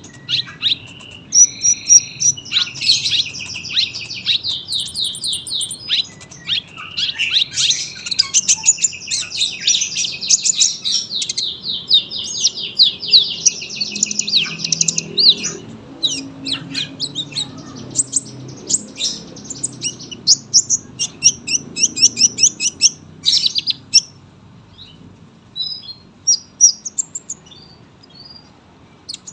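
Kolibri ninja sunbird singing a long, high-pitched song of fast repeated chirps and trills, thinning out to scattered single chirps over the last few seconds.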